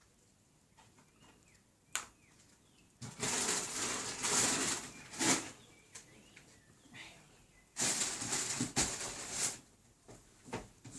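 Two stretches of rustling, each about two seconds long, with a single sharp click shortly before the first.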